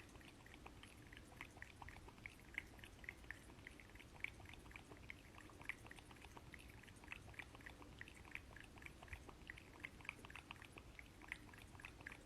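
Faint, quick ticking of a cat lapping water, several laps a second and kept up steadily.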